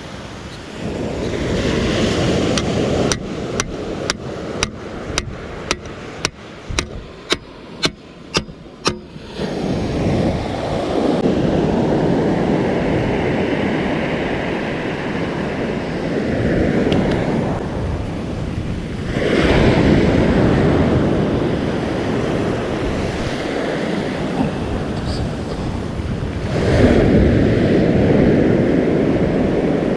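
Surf breaking on the shore, its rush swelling and ebbing several times, with wind on the microphone. Early on, a run of about a dozen sharp clicks, roughly two a second, sounds over the surf.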